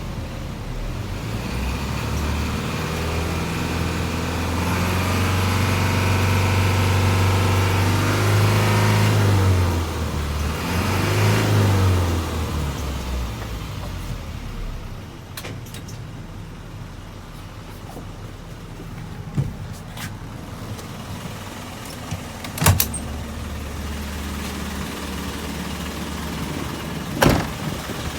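Isuzu Forward truck's diesel engine revved up and held high for several seconds, dropping back, revved briefly once more, then settling to a lower steady idle. A few light clicks and two sharp knocks come in the second half.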